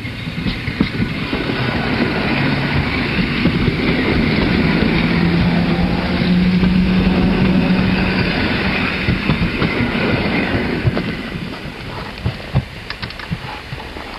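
Passenger train passing close by: its running noise builds to a peak in the middle and fades again, with a steady low hum at the loudest point and clicks of the wheels toward the end.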